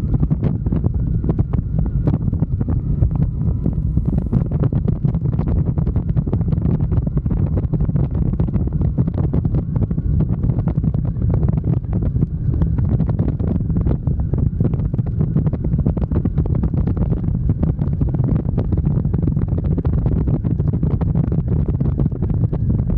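Wind buffeting the microphone on a moving motorcycle: a loud, steady low rumble with rapid flutter, likely with the bike's engine and road noise underneath.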